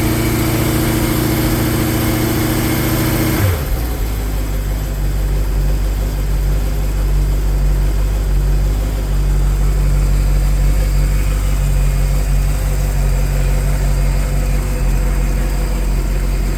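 Inboard boat engine running at idle in its engine compartment. About three and a half seconds in the sound changes abruptly: the higher tones drop away and a deeper, lower engine sound carries on steadily.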